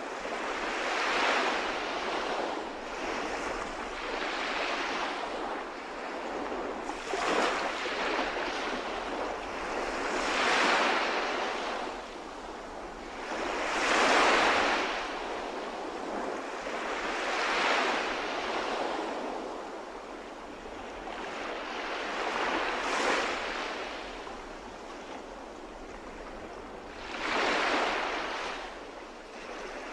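Calm sea waves breaking and washing in, a surge of surf noise rising and falling about every three to four seconds.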